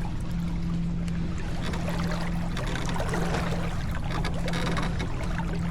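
Water rushing along the hull of a sailboat under way, an even wash of noise with a steady low hum underneath.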